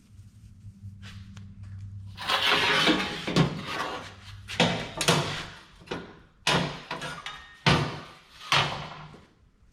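Steel parts and clamps being handled and clamped on a welded shelf frame: a scrape of about a second, then five sharp metal knocks, under a low steady hum early on.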